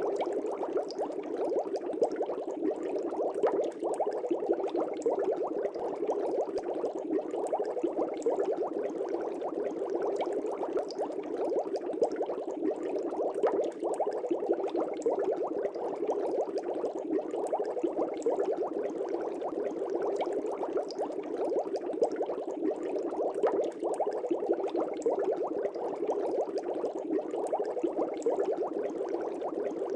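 Aquarium air bubbles rising through a fish tank, a steady dense stream of small bubbling pops and gurgles.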